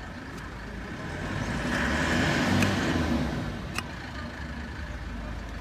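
A motor vehicle's engine passing close by, swelling to its loudest a couple of seconds in and fading away again, over a steady low background rumble, with a few sharp clicks.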